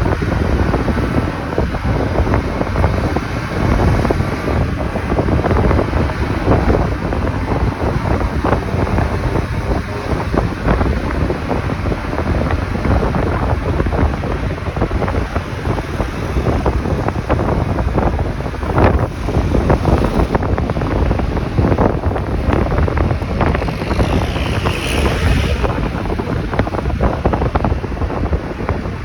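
Wind buffeting the microphone on a moving motorcycle: a steady, loud rumble with road and engine noise underneath. A brief higher-pitched sound comes near the end.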